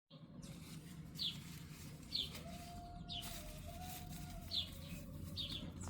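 Birds chirping: short, high, falling chirps repeated about once a second, over a low steady rumble, with a longer steady call in the middle.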